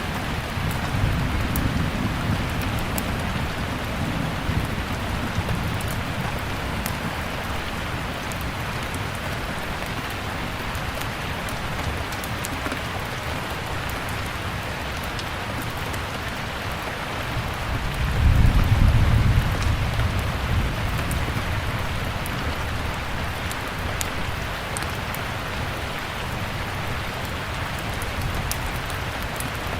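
Steady rain falling, with faint sharp crackles from a wood fire, and a low rumble of thunder swelling about two-thirds of the way through.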